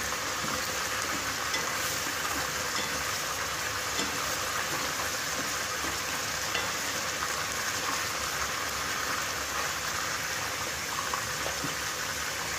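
Spice masala sizzling and bubbling in hot oil in a pan as a wooden spatula stirs it: a steady frying hiss with a few light scrapes.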